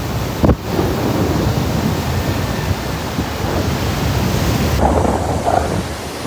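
Water rushing and splashing as a Kia Sonet drives through deep water on the road, a loud, steady rush of spray with a sharp thump about half a second in.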